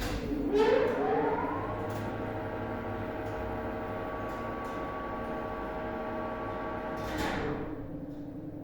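MLZ elevator's AS-72 two-speed drive motor and winch starting up with a whine that rises in pitch for about a second and a half, then running at full speed with a steady whine of several tones. About seven seconds in, the sound changes to a noisier burst as the drive begins to slow. The acceleration whine is the one that grew more pronounced after a bearing replacement in the motor.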